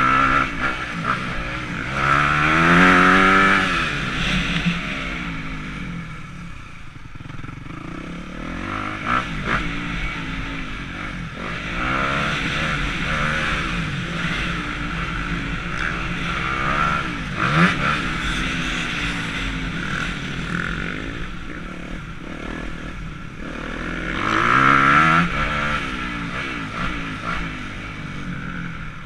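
Motocross dirt bike engine revving up and falling back over and over as it is ridden around the track, the throttle opening and closing through jumps and corners, loudest near the start and near the end.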